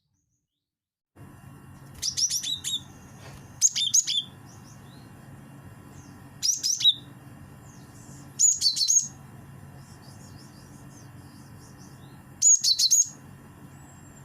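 Gelatik batu (cinereous tit) song played as a lure call: five short phrases of rapid, high, repeated notes, a couple of seconds apart, over a faint steady hum. It starts about a second in, after a moment of silence.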